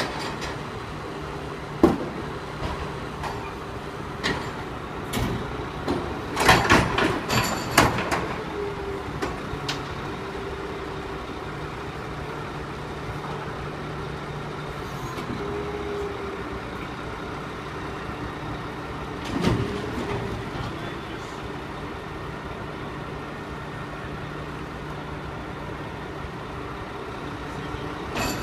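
Garbage truck running, its engine hum joined by a hydraulic whine that comes and goes. A sharp bang comes about two seconds in and a burst of loud metal clanks and clatter about six to eight seconds in. The engine note dips and recovers a little after the middle.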